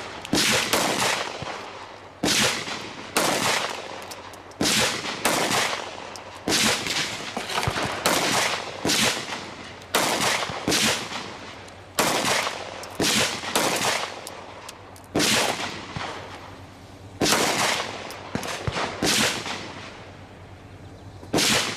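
A long string of gunshots, fired one at a time at roughly one a second with short pauses between groups, each crack trailing off in an echo.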